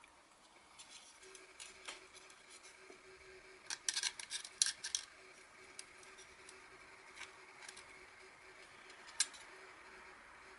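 Light metallic clicks and clinks from the plates of a small stainless-steel mini fire pit being handled, with a quick cluster about four seconds in and a single clink near the end.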